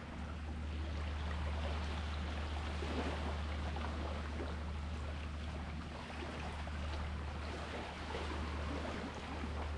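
Sea water washing and lapping in slow swells, over a steady low rumble.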